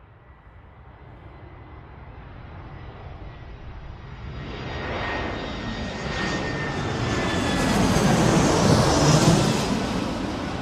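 Red Arrows' BAE Hawk jet trainers flying past: the jet noise grows steadily louder, peaking near the end, with a high whine that falls slightly in pitch as they pass.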